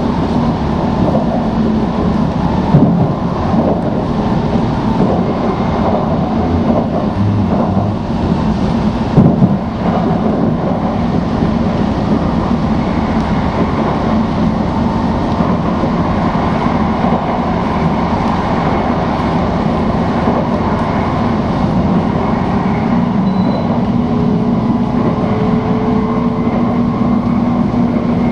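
Tokaido Shinkansen Nozomi bullet train running at speed, heard inside the passenger cabin: a steady rumble and rush with a low hum, and two brief knocks, a few seconds in and again about nine seconds in.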